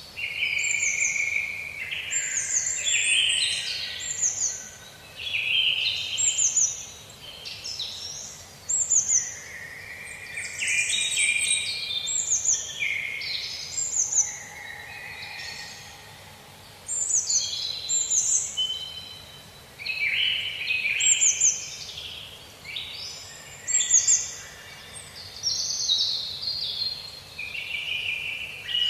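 Songbirds singing in a dense chorus: overlapping short phrases of quick, high chirps and falling trills every second or two, over a faint steady hiss.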